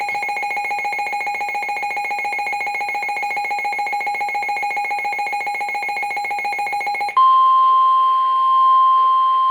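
Midland WR400 weather radio sounding its alert: a loud, rapidly pulsing electronic beep for about seven seconds, then a single steady tone near 1 kHz, the NOAA Weather Radio 1050 Hz attention tone that precedes a warning broadcast.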